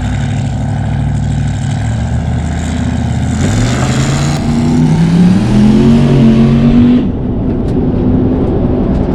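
Turbocharged 4.8-litre V8 of a drag-race truck running steadily, then accelerating hard from about three and a half seconds in, its pitch climbing, dropping at a gear change and climbing again. The loud engine note cuts off suddenly about seven seconds in, leaving a lower rumble.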